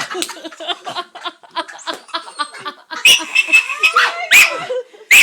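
Dog play-fighting a large stuffed horse toy, making many short, uneven noises, then loud sharp calls about three seconds in and again a second and a half later.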